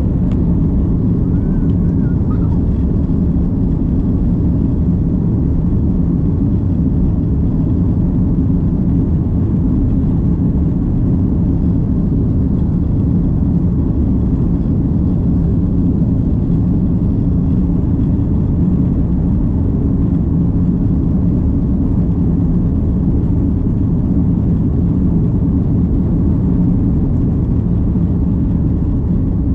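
Steady low rumble of an Airbus A330 airliner's engines and airflow, heard from inside the cabin and holding at an even level throughout.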